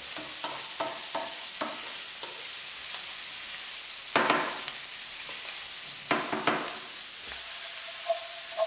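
Diced orange pepper frying hard in olive oil in a hot frying pan, a steady sizzle, with a wooden spoon stirring and scraping through it. There are two louder surges about four and six seconds in, and the pan is tossed near the end.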